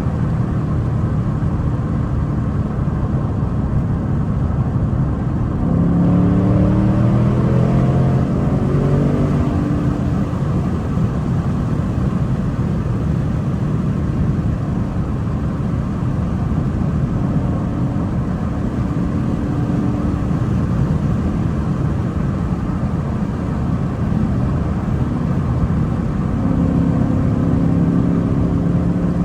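2024 Mustang GT's 5.0 L V8, fitted with high-flow air filters, running while the car drives, over steady road noise. The engine note climbs as the car accelerates about six seconds in, and the engine pitch rises again briefly past the middle and near the end.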